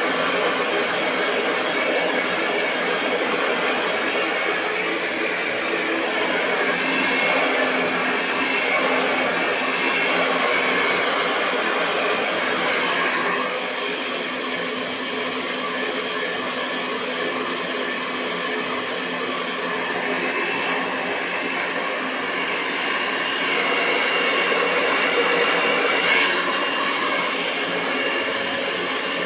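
Hair dryer running continuously, blowing a steady rush of air with a motor whine, its level wavering slightly.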